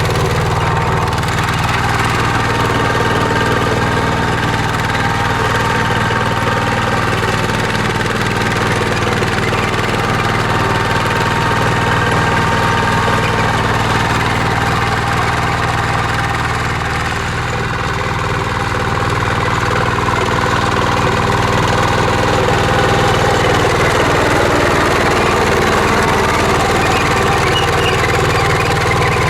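Engine of a mini walk-behind tractor running steadily while ploughing, easing off slightly for a moment about two-thirds of the way through.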